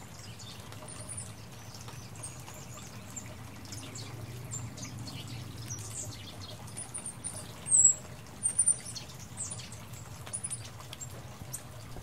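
Songbirds chirping: many short, high chirps scattered throughout, with two louder ones about eight seconds in, over a steady low hum.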